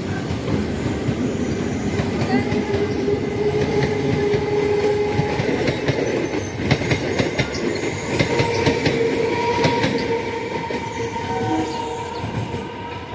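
Electric suburban local train running along the track, its wheels clattering over the rail joints with a cluster of clacks about halfway through. Steady whining tones come in over the second half, and the sound eases off a little near the end.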